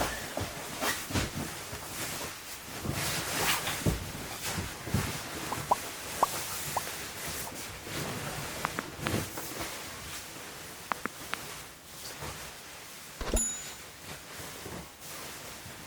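Wood fire crackling, with irregular clicks and pops and a few short squealing pops. A louder knock with a brief metallic ring sounds about thirteen seconds in.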